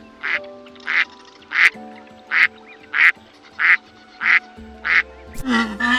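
A duck quacking eight times in an even rhythm, about three quacks every two seconds, over background music. A lower, drawn-out animal call starts near the end.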